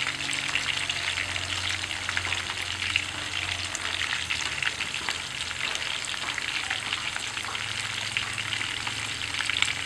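Pieces of sun-dried field rat frying in hot oil in a frying pan: a steady sizzle thick with fine crackling.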